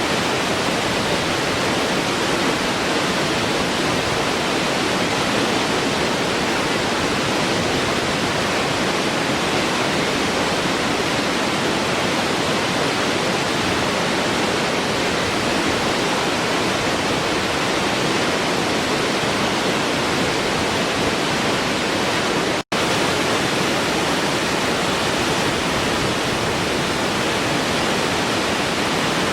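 Waterfall: a steady rushing of falling water, with a split-second dropout about three-quarters of the way through.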